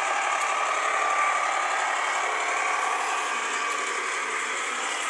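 Small electric motor running steadily, turning a paddle in a bucket of water as a homemade washing-machine agitator; an even mechanical hum.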